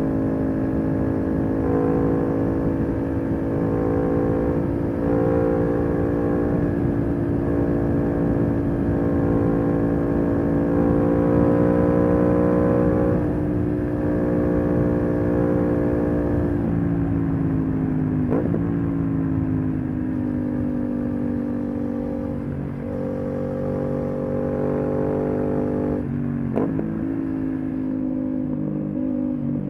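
Aprilia RS 660's 659 cc parallel-twin engine through an SC-Project SC1-R slip-on exhaust, running at a fairly steady cruising speed while riding. The pitch eases down a little past the middle, with two brief sharp rev spikes, one about two-thirds through and one near the end.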